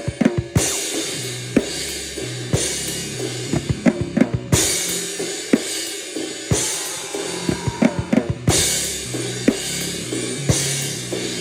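Noise rock music with a drum kit: a cymbal crash about every two seconds, quick clusters of drum hits between them, and a steady low bass tone underneath.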